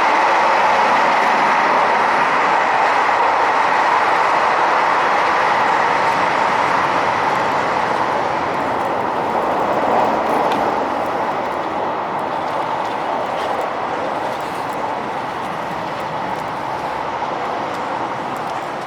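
Running noise of a KiHa 261 series diesel express train heard from on board: a steady rush of wheel and rail noise that slowly eases over the stretch.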